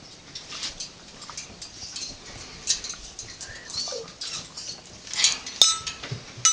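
Light clicks, taps and scratchy rustles from an African grey parrot moving about, with a brief low squeak about four seconds in and a couple of sharper clicks near the end.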